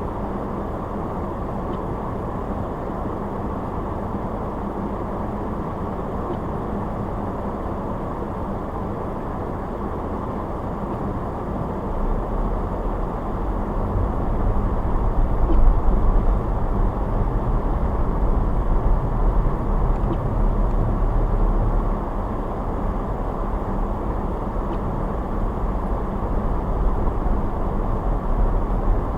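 Car driving on snowy roads: steady, muffled road and engine noise, with a deeper rumble building about twelve seconds in and easing off about ten seconds later.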